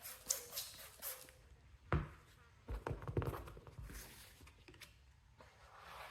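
Faint handling noises as a vinyl decal is worked onto a mower panel: scattered taps and knocks, a sharper knock about two seconds in and a cluster around three seconds, with soft rubbing between.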